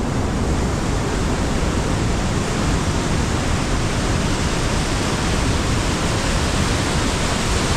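Steady, loud rush of falling and tumbling water from a waterfall and river.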